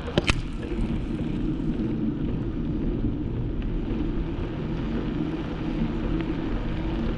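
Steady riding noise: a continuous low rumble of wind and road, with two sharp clicks just after the start.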